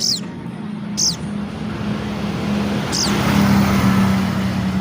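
A sogon bird gives three short, sharp calls, each sliding quickly down in pitch, about a second in and again near the middle. Under them runs a steady low engine hum, and a vehicle passes, swelling loudest near the middle.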